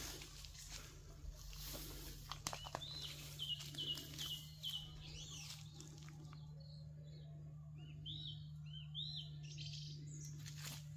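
A bird calling in two runs of quick, short, arched chirps, the first starting about three seconds in and the second about eight seconds in.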